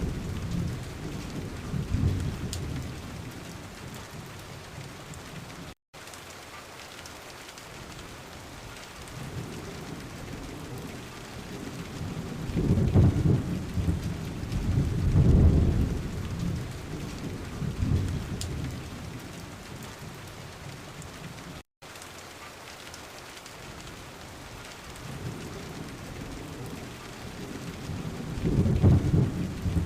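Thunderstorm: steady rain with rolling peals of thunder, the biggest rumbles near the start, in the middle and near the end. The sound cuts out twice for a split second.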